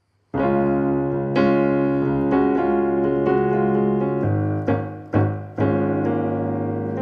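Piano playing the slow intro of a ballad: sustained chords that come in about a third of a second in, with a new chord struck roughly once a second, before the vocal enters.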